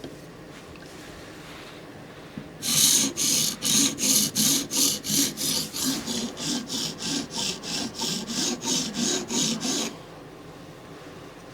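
Knife blade of a Microtech Combat Troodon tanto stroked back and forth across a sharpening stone, a quick even rasping rhythm of about three strokes a second. It starts a few seconds in and stops suddenly after about seven seconds.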